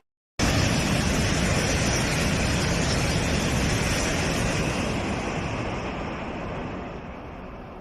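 Chinese high-speed EMU train passing at full speed: a loud, steady rush of wheel-on-rail and wind noise that starts abruptly about half a second in and slowly fades over the last few seconds.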